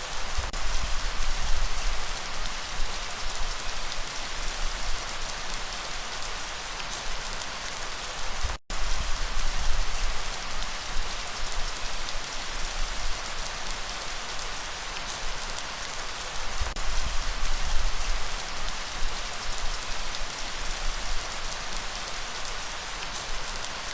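Steady rain falling, a dense even patter with a low rumble underneath. The sound cuts out completely for a split second about a third of the way in, like an edit splice in the recording.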